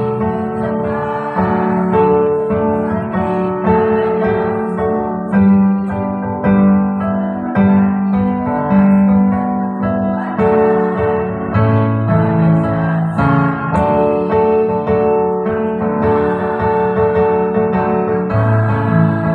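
Electronic keyboard playing music with an electric-piano sound: sustained chords that change every second or two, with a melody on top.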